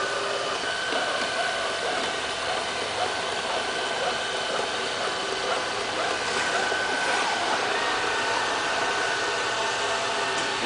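LL-A320 robot vacuum cleaner running, its motor giving a steady whine over an even hum.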